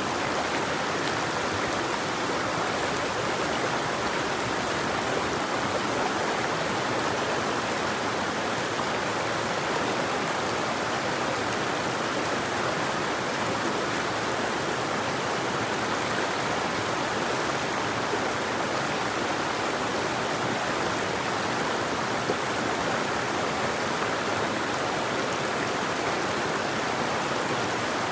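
A river running: a steady, even rush of flowing water, with no birdsong.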